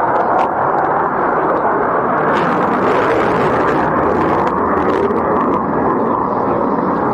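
Steady, loud jet engine noise from a Sukhoi Su-57 fighter.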